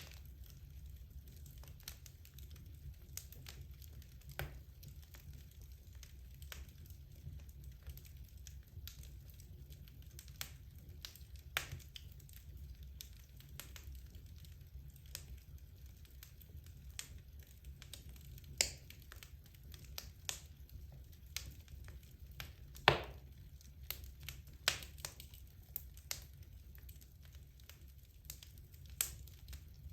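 Wood logs burning in a fireplace, crackling with irregular small snaps and occasional louder pops, the loudest about three quarters of the way through, over a low steady rumble.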